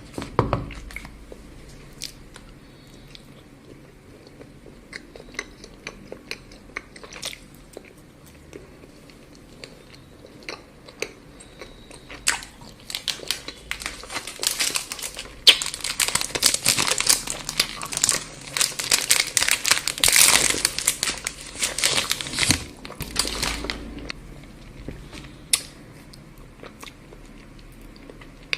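Close-miked eating of chocolate: scattered bites and crunchy chewing, then a dense stretch of crackling and crinkling from about twelve seconds in until just before the end.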